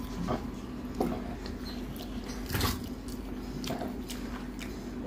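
Close-up eating sounds: a mouthful of rice and mutton curry being chewed, with a few short wet clicks and smacks, the loudest about two and a half seconds in, over a steady low hum.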